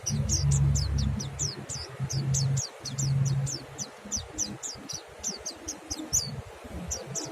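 Mountain white-eyes ('monty' pleci) singing a rapid, unbroken run of short, high, falling chirps in the wild 'ngalas' style, several birds answering one another. A steady low hum runs under the song for the first three seconds or so.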